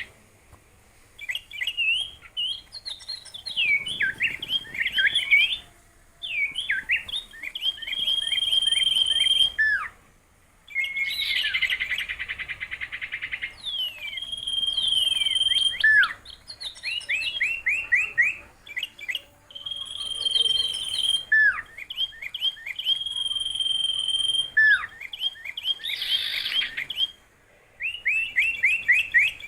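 A songbird singing a long, varied song in phrases broken by short pauses: runs of quick falling notes, level held whistles and dense buzzy rattles.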